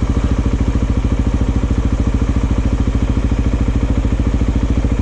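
690 cc single-cylinder dual-sport motorcycle engine idling steadily, with an even beat of about ten pulses a second.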